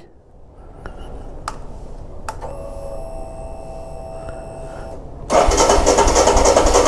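Royal Enfield Himalayan BS6's single-cylinder engine being started: a few clicks, then a steady electric whine for about two and a half seconds, then the engine catches about five seconds in and runs loudly. The bike has a starting fault that a newly fitted fuel pump has not cured.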